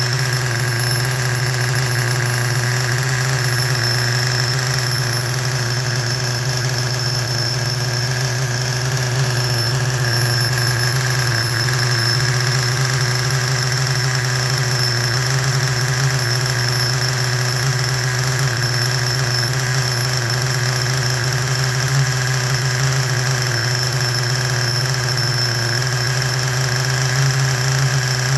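Small nitro-fuelled glow engine of a Mugen Seiki MV12 RC car running at a steady idle, with a thin high whine over the engine note.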